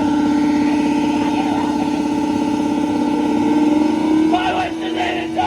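Live noise-rock band playing a loud, distorted electric-guitar drone that pulses rapidly. About four seconds in it thins to a single held tone, and a raw voice cuts in near the end.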